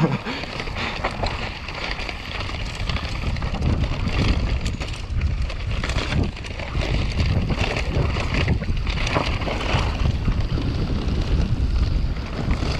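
Wind buffeting a rider-worn camera's microphone during a fast mountain bike descent, with constant clattering and knocks from the bike over rough ground.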